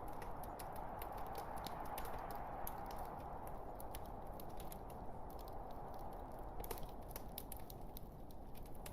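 Burning logs in a fireplace crackling: a steady hiss of the fire with frequent small, sharp pops and snaps, one a little stronger about two-thirds of the way through.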